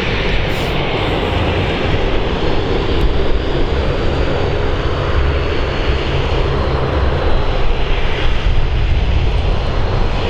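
Aircraft engines running steadily, mixed with strong wind rumbling on the microphone.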